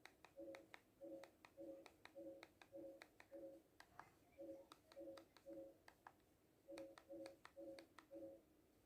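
Faint short beeps through a television speaker, each two low notes sounding together, about two a second in runs of six, three and four, with sharp clicks between them.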